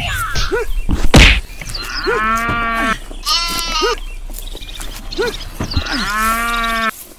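Farm animal sound effects: bleating and mooing, about three long wavering calls, with a sharp whack about a second in.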